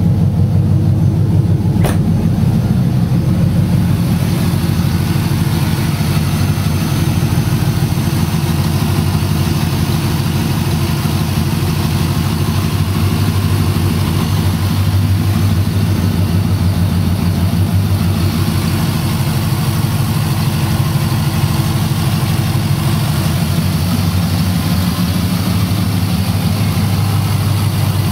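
LS6 V8 engine in a 1999 Camaro Z28 idling steadily, with a single brief click about two seconds in.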